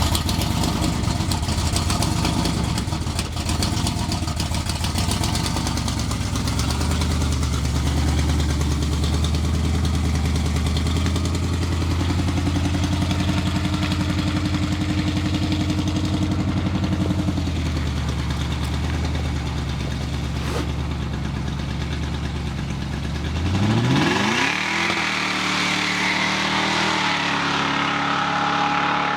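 Supercharged V8 engine of a GAZ-21 Volga running hard. It holds steady revs that step up a couple of times, then revs rise quickly about 23 seconds in.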